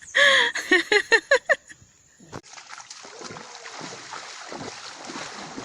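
Shallow river water splashing and sloshing, uneven and irregular, after a single sharp knock.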